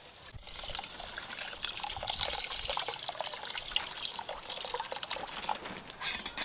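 Water running and splashing, starting about half a second in, with one sharper, louder splash near the end.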